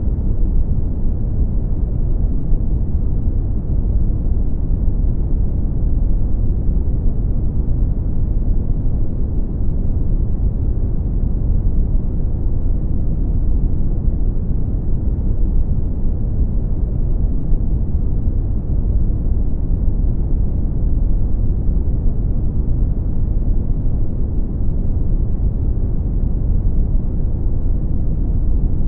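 Brown noise: a steady, deep rumbling hiss, heaviest in the bass and falling away toward the treble, unchanging throughout.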